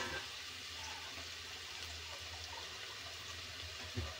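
Onion-and-spice masala frying in a pressure cooker with a little water just added, a steady low sizzle and bubble. A sharp knock at the start and another about four seconds in.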